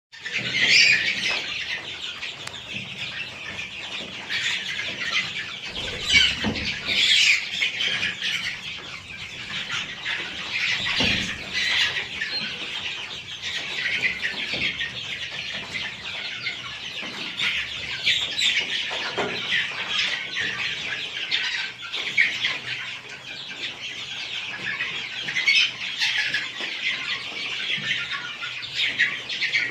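A crowd of domestic chicks peeping at once, a dense, unbroken chorus of high overlapping cheeps.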